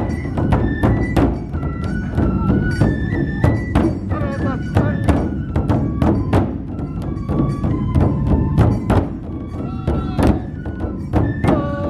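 Matsue dō-gyōretsu festival music: a large dō drum beaten in a quick, even rhythm of about three strokes a second, with a flute playing a melody that steps between held notes above it.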